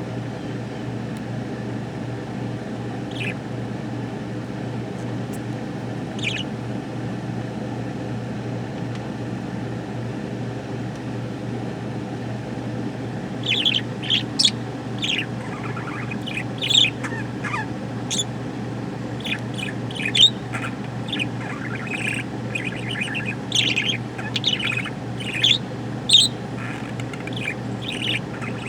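Budgerigar chirping: two single chirps early on, then a run of quick, high chattering chirps from about halfway. A steady low hum runs underneath.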